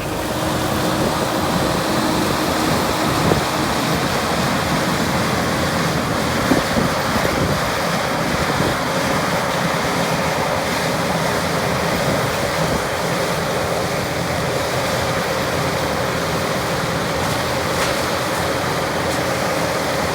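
Skid steer running a Blue Diamond severe duty brush cutter, a steady loud rushing drone with a faint steady whine, and a few brief knocks about three and six to seven seconds in.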